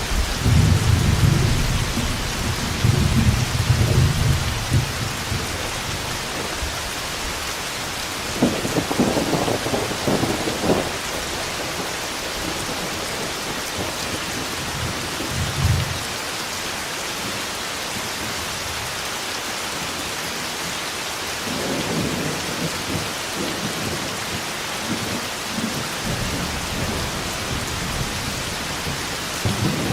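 Steady heavy rainfall with rolls of thunder: a deep rumble in the first few seconds, sharper crackling peals around 9–11 s and again from about 22 s, and another rumble starting near the end.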